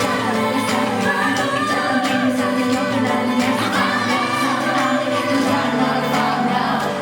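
A K-pop girl group singing live in several voices over a pop backing track, heard through a concert sound system.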